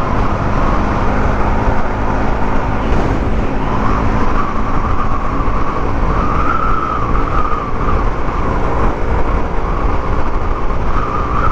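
Motorcycle riding at highway speed: a loud, steady rush of engine and road noise that does not let up.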